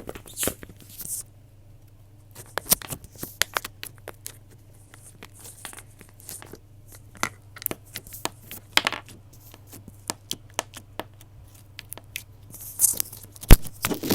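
Close-up crinkling and tearing noises: irregular rustles and sharp crackling clicks with short quiet gaps, and one louder snap near the end.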